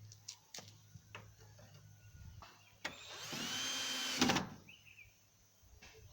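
Electric drill running in one short burst of about a second and a half, its whine rising and then falling, among light clicks and knocks of handling.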